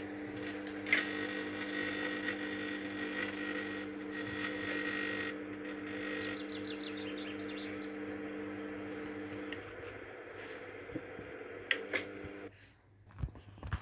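Microwave oven running with a steady hum while a pebble inside arcs into plasma, crackling and sizzling much like welding. The crackle is loudest for the first few seconds, and the hum cuts off near the end.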